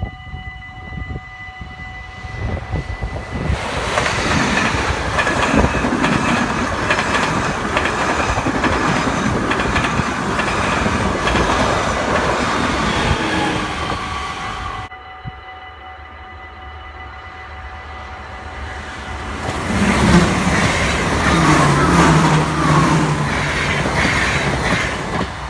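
Two Dutch electric passenger trains passing a level crossing close by at speed, with loud wheel and rail rumble: first a BR 186 TRAXX locomotive with ICRm coaches, then an ICMm multiple unit, the second passage the loudest. A steady ringing from the level crossing's warning bell sounds under both.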